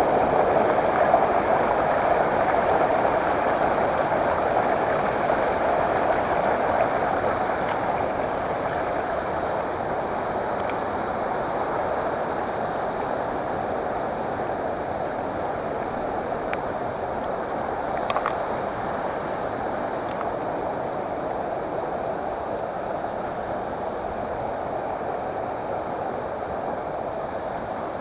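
Steady rushing water of a waterfall and its stream, easing slightly quieter over the stretch.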